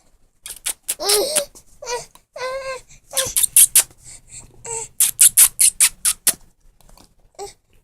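A baby making kissing noises: runs of sharp lip smacks, fastest in a quick string of about six near the middle, with short high-pitched squealing vocal sounds in between.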